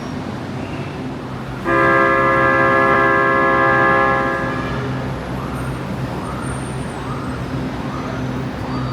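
Metro train horn sounding one long, loud tone about two seconds in that fades over a few seconds. A row of short rising-and-falling beeps follows, repeating steadily, like a door warning signal before the doors close.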